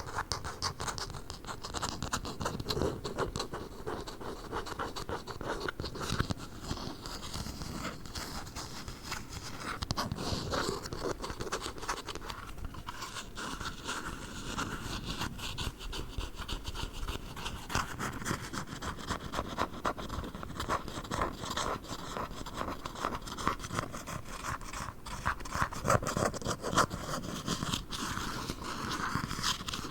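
Squishy toy dumplings being squeezed and handled close to the microphone: a dense, continuous run of small crackling and squishing sounds.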